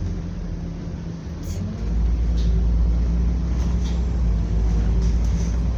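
Scania double-decker bus running, heard from on board: a steady low engine drone that grows louder about two seconds in, as the bus pulls harder.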